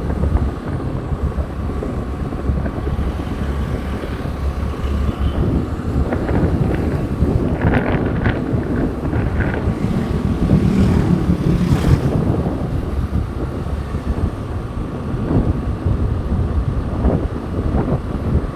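Wind rushing over the microphone during a motorbike ride, with the steady rumble of the bike and road underneath.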